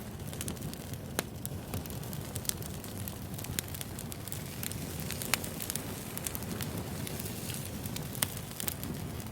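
Crackling wood fire: logs burning with irregular snaps and pops over a steady low rumble, a few pops standing out louder.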